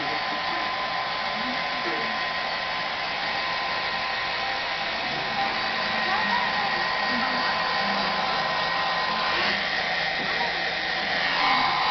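Hair dryer running steadily, a constant rush of air with a steady whine on top. A little past nine seconds in the whine drops out and the sound changes briefly, then it comes back near the end.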